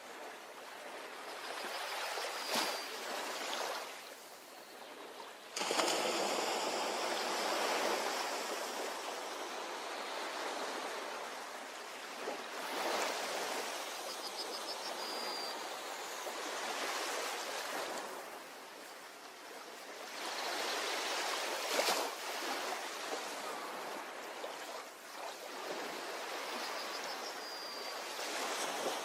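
Ocean surf washing onto a beach in slow, repeated surges that swell and fall back every few seconds, with one sudden swell about five seconds in. A couple of sharp clicks and a few faint, short high chirps sit above the wash.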